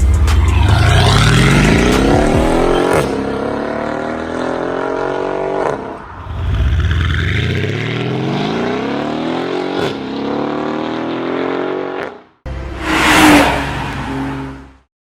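Mercedes-Benz CLS63 AMG V8 with an iPE aftermarket exhaust accelerating hard, its pitch climbing steadily and dropping sharply at upshifts about three seconds in and again around ten seconds. After a brief cut, a final loud rushing blast of engine and exhaust noise near the end fades out.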